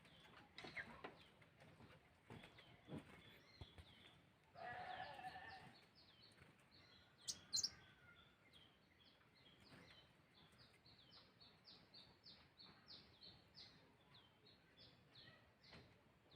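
Kolibri wulung sunbird lure call: a long run of short, high chirps repeated about two to three times a second, with two louder, higher calls about seven seconds in.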